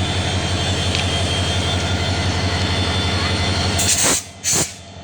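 A Hyundai Rotem diesel-electric locomotive's engine running with a steady low throb. About four seconds in, two short bursts of noise cut across it while the engine sound dips.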